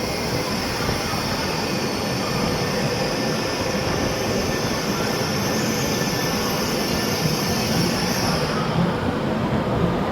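High-speed train running, a steady rumble with a high-pitched hiss over it that fades away near the end.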